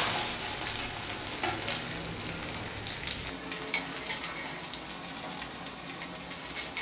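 Chicken kebab pieces sizzling as they fry in a pan, browned and nearly done, with a few sharp ticks and taps over the steady hiss. A low hum drops away about three seconds in.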